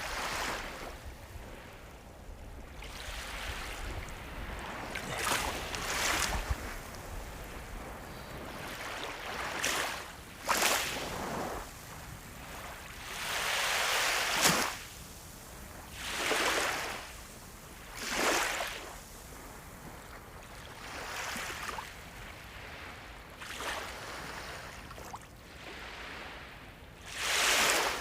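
Ocean waves breaking and washing up the shore, a new rush of surf every two to three seconds over a steady sea hiss. The loudest surges come about halfway through and near the end.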